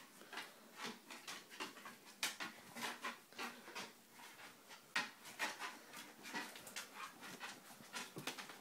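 A dog's claws and paws clicking and tapping irregularly on stair treads as it climbs backwards, step by step, with light dog panting.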